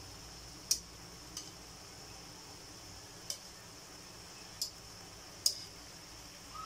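Pork slices and onion rings frying in a wok, a steady sizzle with five sharp ticks scattered through it.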